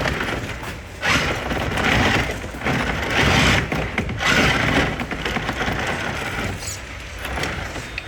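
Small electric RC truck driven over a track's obstacles in short bursts of throttle, making a run of noisy bursts about a second apart as its tires scrabble and the chassis knocks on the surface.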